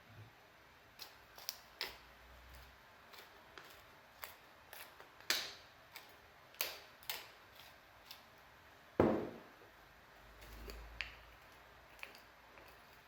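A series of irregular light clicks and taps from objects being handled, with one heavier knock about nine seconds in.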